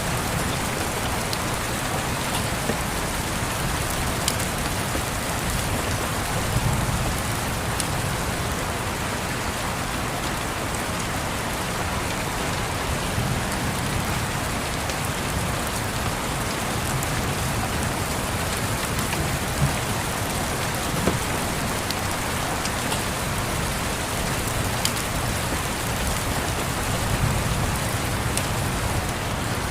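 Steady rain pattering on a surface, with a few sharp crackles of a wood fire and soft low rumbles of distant thunder that swell and fade every several seconds.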